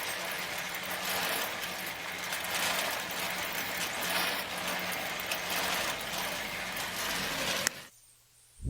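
A mini tractor's small engine running steadily, a hissing, rattly hum with a faint low drone, that cuts off suddenly near the end.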